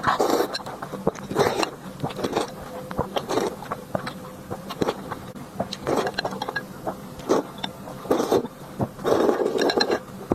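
Close-miked eating sounds: a person chewing and biting food, with many irregular short clicks and brief smacks.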